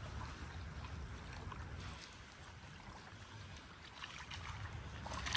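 Wind rumbling on the microphone, a steady low buffeting, with a few faint clicks near the end.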